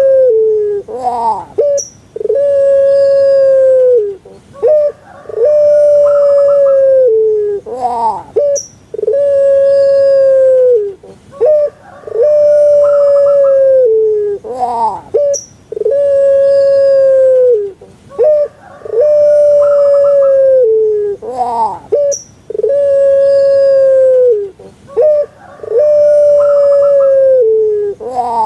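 Puter pelung dove (Streptopelia risoria) singing its long call over and over, about every three and a half seconds: a short rising note, then a loud drawn-out coo held steady for about two seconds that drops away at the end.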